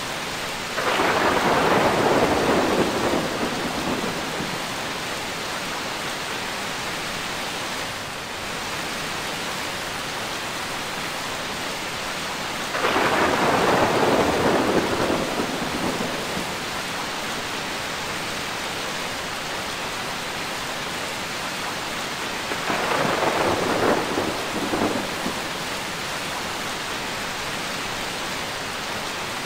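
Steady rain with three rolls of thunder: one about a second in, one about thirteen seconds in and one about twenty-three seconds in, each swelling suddenly and fading over a few seconds.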